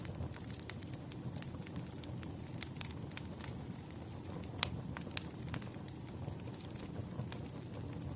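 Wood fire burning, a steady low rumble with frequent sharp crackles and pops at irregular intervals, the loudest pop about four and a half seconds in.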